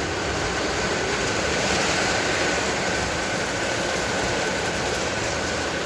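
Heavy rain and strong storm wind making a steady, even rush of noise with a low rumble. A faint steady whistle runs through it.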